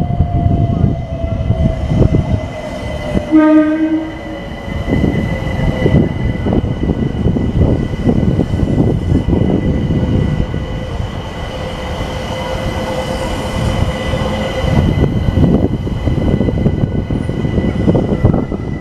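London Overground Class 378 electric multiple unit passing close by, its wheels clattering over the rails throughout, with a whine that falls in pitch over the first six seconds. A short horn blast sounds about three seconds in.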